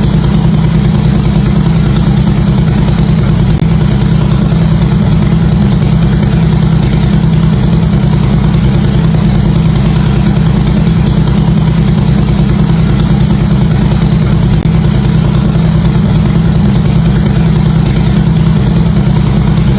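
Harley-Davidson V-twin motorcycle engine idling, its exhaust running loud and steady with no revving.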